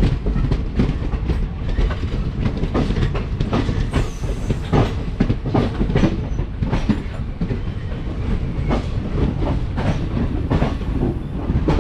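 Passenger train running at low speed, heard from on board as it rounds a curve: a steady low rumble of the coaches with frequent, irregular clicks and knocks of the wheels over rail joints.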